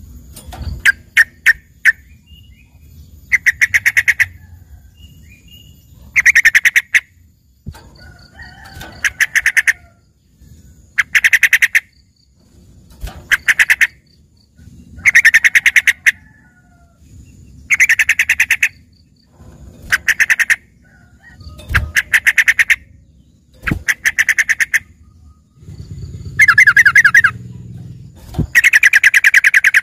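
Yellow-vented bulbul (trucukan) singing a long series of loud, fast, chattering phrases, each about a second long, about every two seconds. Its song is filled with learned phrases that make it sound like a greater green leafbird (cucak ijo) in full song.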